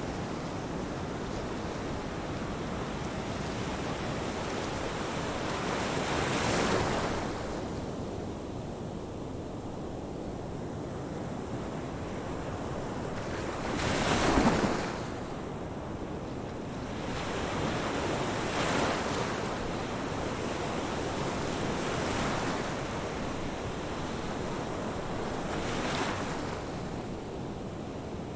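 Ocean waves washing ashore: a steady surf hiss with four waves surging and breaking, the loudest about halfway through.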